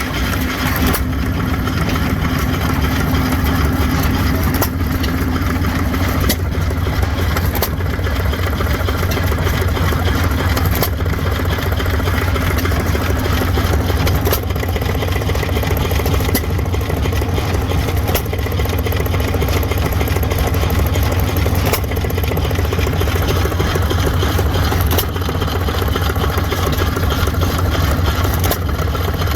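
2 hp Stover Type K hit-and-miss gasoline engine running, with a sharp crack every few seconds over a steady low rumble.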